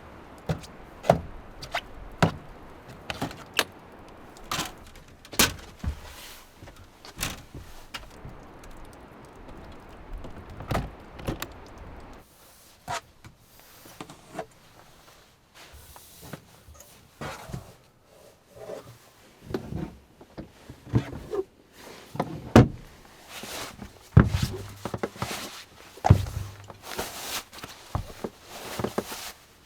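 Irregular knocks, clunks and door thuds over wind noise. The wind noise drops away about twelve seconds in, and heavier, louder thumps follow in the last third.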